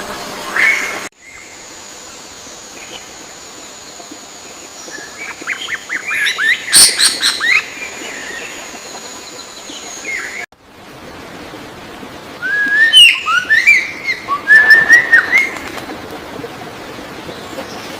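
Birds chirping and calling in quick bursts of short, sharp notes, twice, in separate clips joined by abrupt cuts. A steady high tone runs under the first clip.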